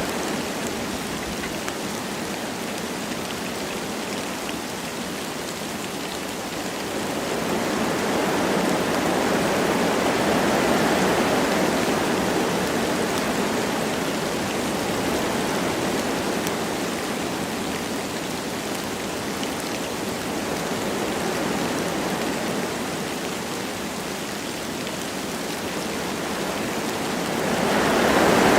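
Wind blowing through forest trees with light rain, a steady rushing noise that swells in gusts about a third of the way in and again near the end.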